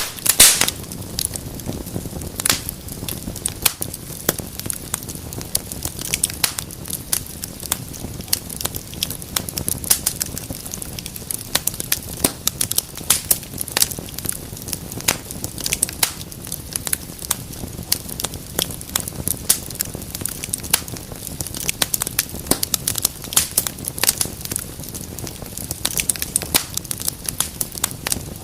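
Wood fire burning in a fireplace, crackling steadily with many sharp pops and snaps over a low rumble of flames; the loudest pop comes right at the start.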